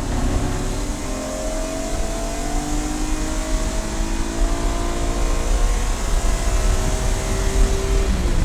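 Race car engine pulling hard under acceleration, its note climbing steadily through a gear, then dropping about eight seconds in as it shifts up. A heavy low rumble of road and wind noise lies under it.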